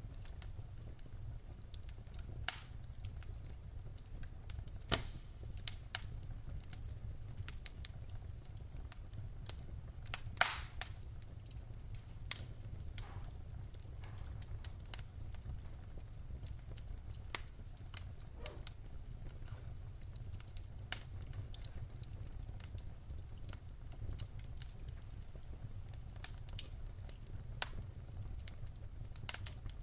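Wood fire burning in a fireplace: a steady low rumble of the flames with scattered sharp crackles and pops from the logs, a few louder pops about 2.5, 5 and 10 seconds in.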